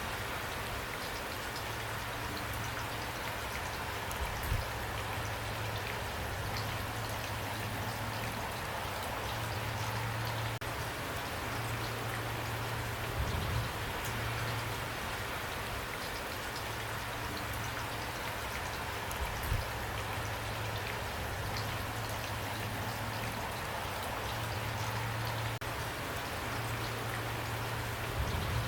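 Steady rain falling, with individual drops ticking throughout and a low hum underneath. Three brief low thuds stand out: about four seconds in, near the middle and about two-thirds of the way through.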